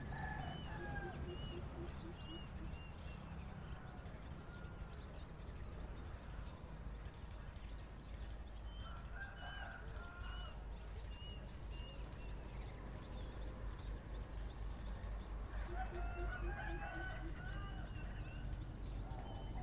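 Outdoor birdsong: a longer crowing-like bird call comes three times, near the start, about halfway and near the end, while small birds chirp rapidly and high over a steady high-pitched background hum.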